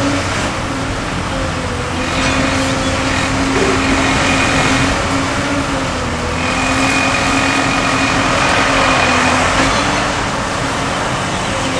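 Sennebogen 870E high-reach demolition excavator working: a steady engine hum with a high hydraulic whine that comes in twice as the machine moves under load.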